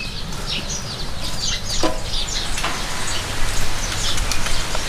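Small birds chirping over and over, many short high chirps that fall in pitch, with one lower call about two seconds in.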